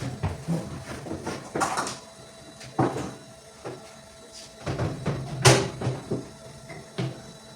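Kitchen clatter as things are handled and put away: a handful of separate knocks and bumps of cupboard doors and objects being set down, the loudest about halfway.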